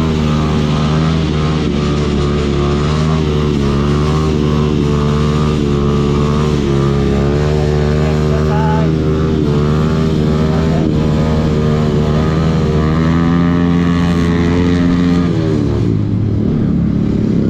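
Motorcycle engine running steadily while riding at a constant speed. Near the end its pitch drops as the bike slows.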